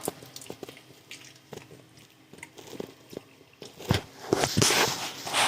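A person biting into and chewing chicken wings close to the microphone: scattered wet smacks and clicks, with louder crunching bites from about four seconds in.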